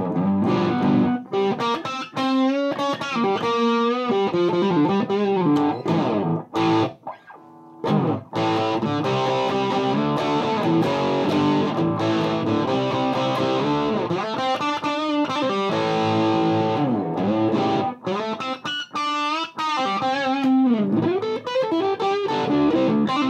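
Gibson Les Paul electric guitar played through a Mesa Boogie Dual Rectifier amp in its Pushed mode at 100 watts, into a Marshall 1960A 4x12 cabinet. It plays driven, distorted riffs and single-note lines, with a short break about seven seconds in.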